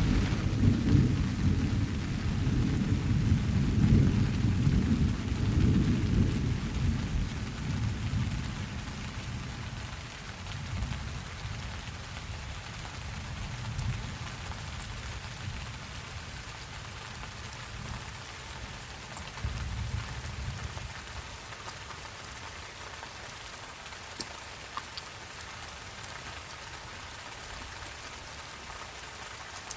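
Steady rain falling, with thunder rumbling low over the first several seconds and slowly fading away, then a shorter, fainter roll of thunder about twenty seconds in.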